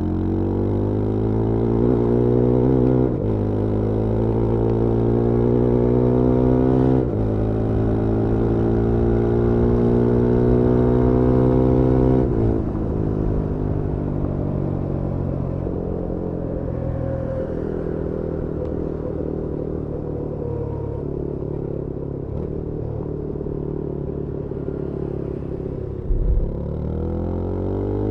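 Yezdi Scrambler 350's 334cc single-cylinder engine and exhaust pulling hard through the gears, the pitch rising and dropping at upshifts about 3 and 7 seconds in. Around 12 seconds in the throttle closes and the revs fall away, then the engine runs lower and steadier, with a short thump a few seconds before the end and the revs rising again at the end.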